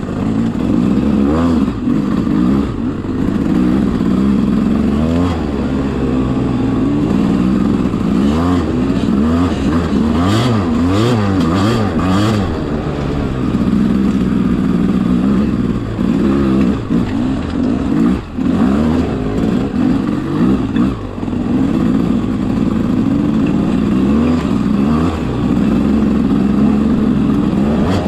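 Enduro motorcycle engine revving up and down continuously under load on a climb, with the throttle opened and shut again and again and brief drops in revs now and then.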